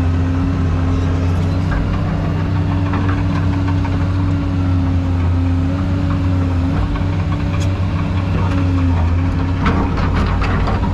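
Excavator's diesel engine running steadily with a deep, even hum whose pitch wavers slightly, and a few sharp clanks near the end.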